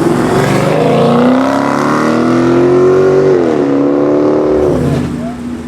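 Car engine at full throttle, its pitch climbing steadily, dropping at an upshift about three and a half seconds in, then climbing again before the engine note drops away and gets quieter near the end.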